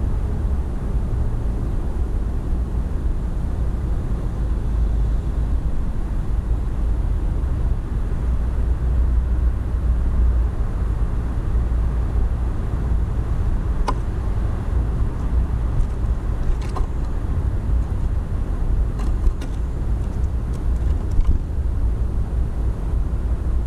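Steady low rumble throughout, with a few brief, faint, high sharp sounds from about halfway through.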